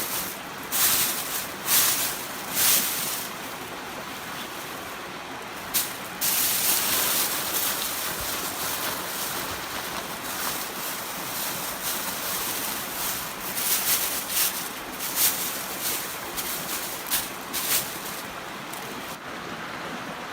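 Emergency blanket crinkling and rustling as it is handled, in short sharp crackles on and off, over a steady rushing background.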